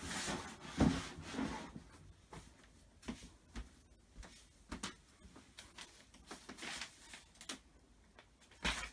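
Scattered light knocks and taps of wooden flat-pack cupboard panels being handled and fitted together, with a louder thud about a second in and another near the end.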